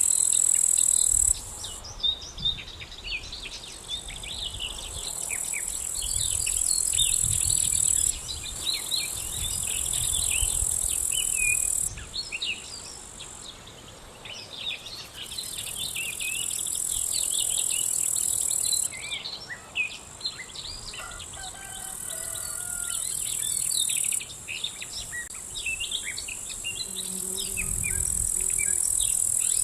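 Insects buzzing in a high, steady drone that starts and stops in stretches of a few seconds, under many small birds chirping.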